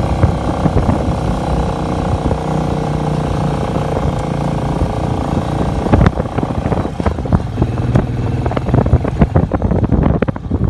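Royal Enfield Meteor 350 single-cylinder motorcycle engine running steadily while riding. From about six seconds in, rapid irregular knocks and gusts come in over it.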